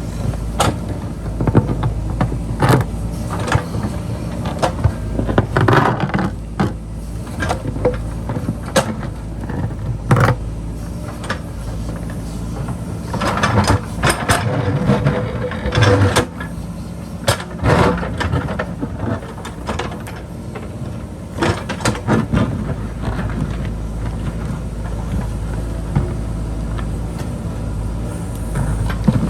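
JCB backhoe loader's diesel engine running steadily under load, with repeated knocks and scrapes as the bucket digs into rock and earth.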